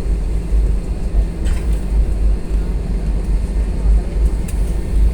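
Airbus A320 cabin noise on the ground: a steady low rumble from the running engines and the airframe, with a couple of faint clicks.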